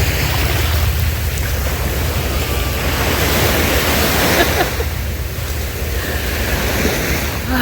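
Ocean surf washing on the shore, a steady rush of breaking waves, with wind rumbling on the microphone.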